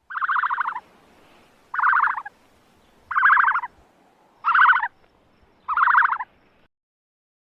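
Turkey gobbling five times at even intervals, each gobble a short, rapid rattling call.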